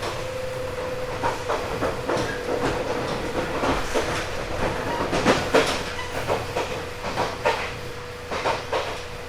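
JR 189 series electric train running at speed, heard from inside motor car MoHa 189-44 with its MT54 DC traction motors under resistance control. A steady whine and low rumble carry on throughout, with irregular clicks and clacks of the wheels over rail joints, thickest in the middle and again near the end.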